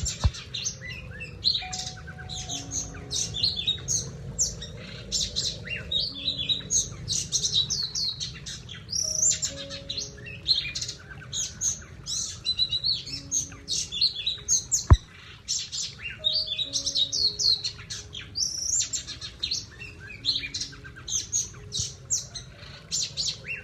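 A songbird singing continuously in a rapid, varied stream of high chirps, whistles and trills, with a single sharp click about fifteen seconds in.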